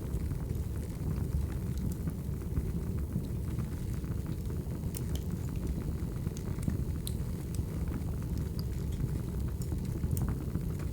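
Wood fire burning with a steady low rumble and scattered sharp crackles and pops of burning logs.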